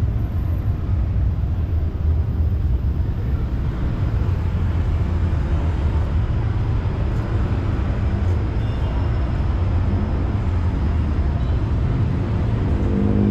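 Steady low rumble of city traffic, an even noise heaviest in the bass with no distinct events.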